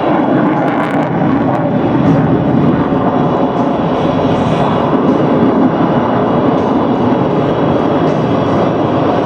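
F-22 Raptor's twin turbofan engines, heard as a loud, steady jet noise that holds level throughout.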